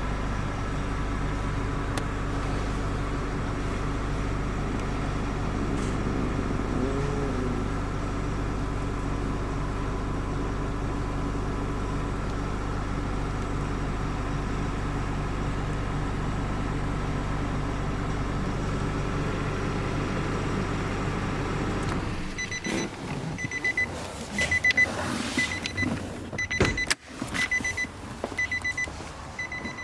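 A Nissan vehicle's engine running steadily, heard from inside the vehicle, switches off about 22 seconds in. A repeating electronic warning chime then beeps, with clicks and clunks of doors and controls.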